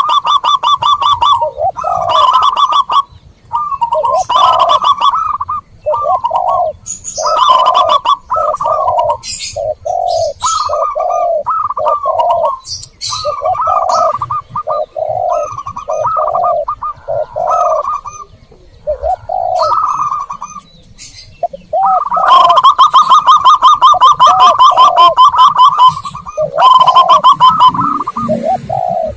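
Zebra doves and spotted doves cooing in repeated short phrases, with a long rapid trilled coo run near the end, played as a lure call to draw wild doves. Thin high chirps of small birds sound in between.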